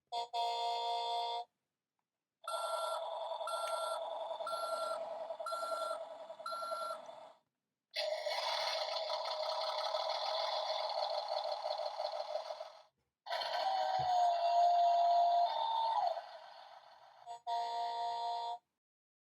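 Electronic sound effects from a Tonka Mighty Machines toy bulldozer's small built-in speaker, set off by its button. The sound plays as a string of separate clips with short pauses between them: five evenly spaced beeps over a buzz, a long engine-like rumble, and a wavering tone.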